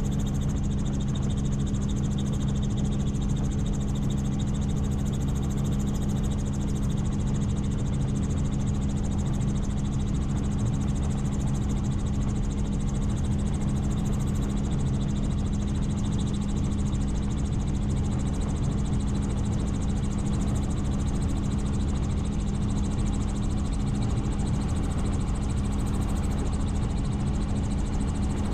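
Helicopter in steady flight: a constant engine-and-rotor drone with a low hum and a high whine above it, unchanging throughout.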